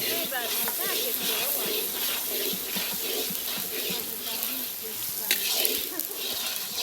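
Food frying and sizzling in a pan, with a single sharp knock about five seconds in.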